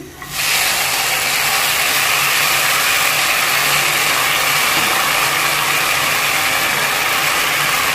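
Steady sizzling of sauce-coated stir-fried vegetables as they are tipped into a nonstick wok on the stove.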